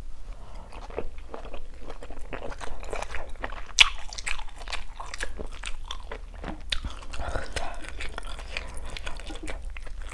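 Close-miked chewing of a bite of pan-seared scallop: a run of many short mouth clicks and smacks, with one sharper click about four seconds in.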